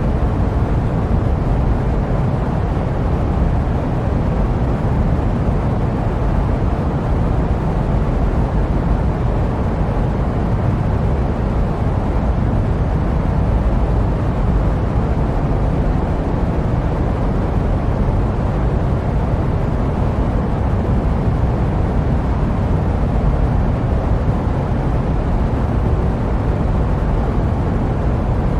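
Steady jet aircraft noise used as white noise: an even, unbroken low rumble with most of its weight in the deep bass and little hiss on top.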